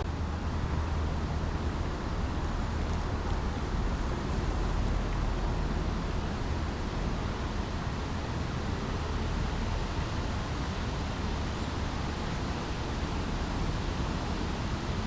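Steady rushing of a small babbling brook, with a constant low rumble of road traffic underneath.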